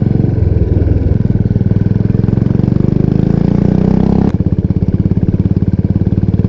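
Royal Enfield Bullet 350 Classic's single-cylinder engine running loud through an aftermarket 'Punjabi dhol' exhaust, its beat evenly pulsed. Revs climb from about three seconds in and fall away sharply just past four seconds.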